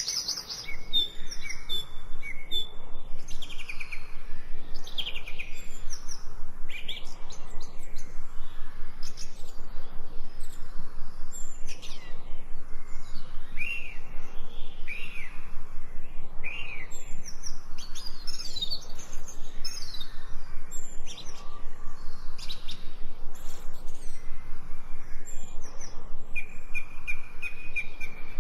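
Several birds chirping and singing at once: many short, overlapping high calls and trills, some sliding down in pitch, over a faint outdoor hiss.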